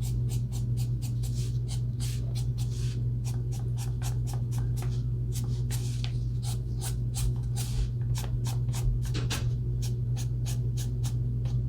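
Alcohol marker tip being stroked quickly back and forth on paper, a rapid run of short scratchy strokes, several a second, over a steady low hum.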